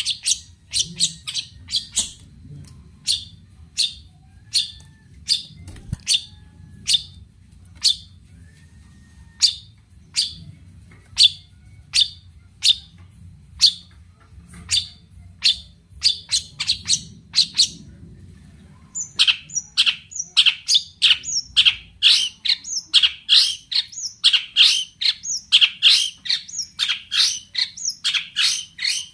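Long-tailed shrike (cendet) calling, sharp, short notes repeated about once or twice a second. After a brief pause about two-thirds of the way through, it breaks into a faster, louder run of rapid calls.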